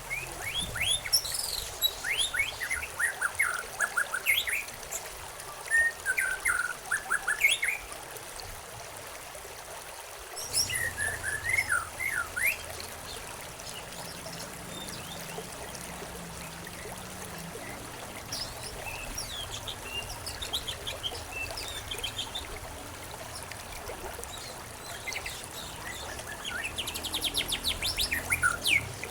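Songbirds chirping in bursts of quick, high notes every few seconds, over a steady trickle of running water.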